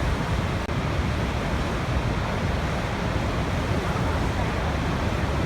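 Waterfall rushing, a steady, unbroken roar of falling water that is heaviest in the low range.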